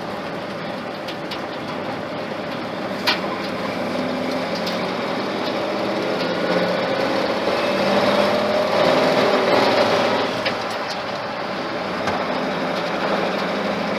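Rebuilt Ford flathead engine pulling the truck along, quiet with a bit of a throaty note. Its pitch and level climb through the middle as it picks up speed, then ease off. A single click comes about three seconds in.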